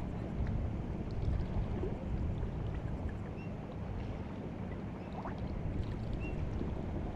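White Sea water lapping and washing at the shoreline as the tide comes in: a steady wash with many small splashes and clicks. A few faint short bird calls sound now and then.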